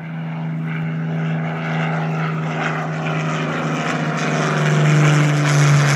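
Rolls-Royce Merlin V12 piston engine of a WWII propeller warbird running at take-off power: a steady drone that grows louder, its pitch dropping slightly near the end.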